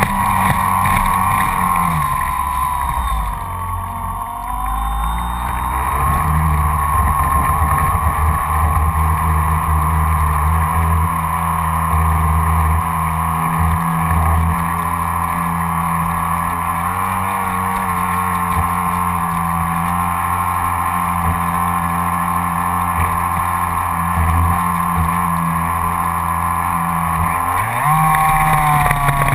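Electric RC speed boat running fast, heard from on board: the high whine of its Graupner 700 BB Turbo brushed motor driving a surface-drive prop, over a rush of water against the hull. The whine drops in pitch and climbs back about three seconds in, and again near the end.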